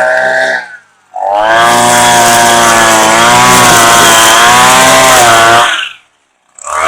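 Gas engine of a Southland wheeled string trimmer mower running at high speed, its pitch wavering slightly as it cuts. The sound cuts out abruptly twice for about half a second, about a second in and near the end.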